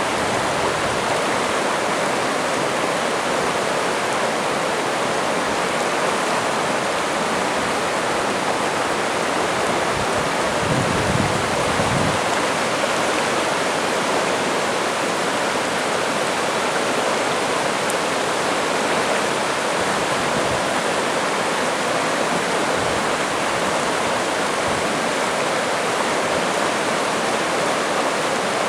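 The Saddle River in flood, rushing steadily in a loud, even roar of water, swollen by Hurricane Irene's rain. A brief low rumble comes about eleven seconds in.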